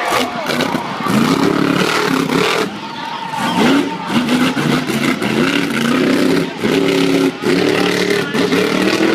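Monster truck engine revving hard in repeated rising surges, its pitch climbing and dropping back about once a second.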